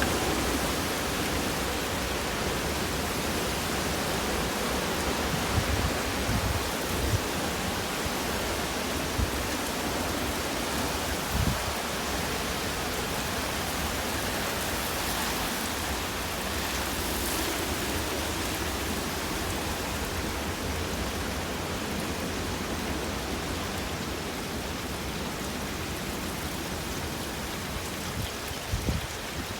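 Severe thunderstorm of wind-driven rain and high wind gusts: a steady, heavy rushing noise that eases slightly toward the end, broken by a few brief low thumps.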